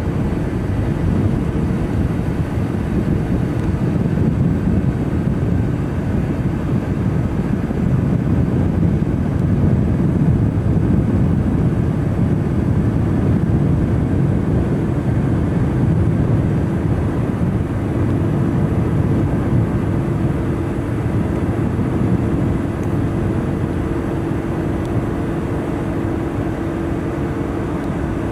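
A large car ferry's engines droning steadily as heard on board: a continuous low rumble with a faint steady hum above it, which becomes clearer in the second half.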